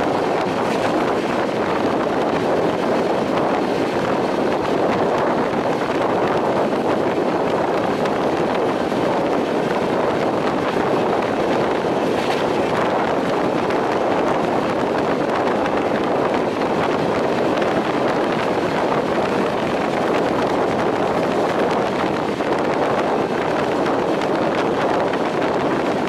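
Steady rush of wind and running noise from a double-decker passenger train travelling at speed, with wind buffeting the microphone held outside the coach.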